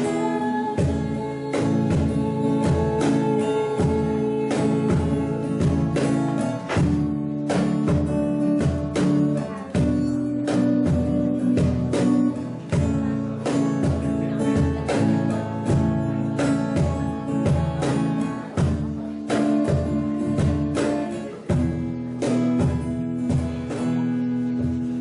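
Acoustic guitar and drum playing a slow pop ballad with a steady beat, beginning to die away near the end.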